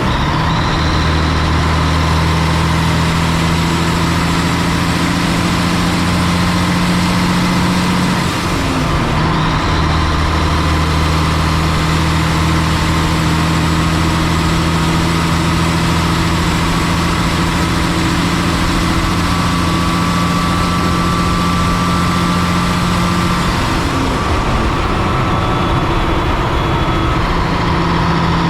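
Heavy diesel engine running steadily, its pitch shifting briefly about eight seconds in and again near the end.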